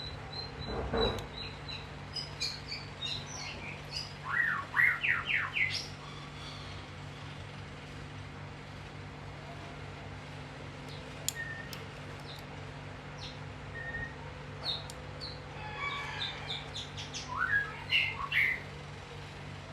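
A small songbird chirping in two bouts of quick rising notes, about four seconds in and again near the end, with a few short high calls and sharp clicks in between, over a steady low hum.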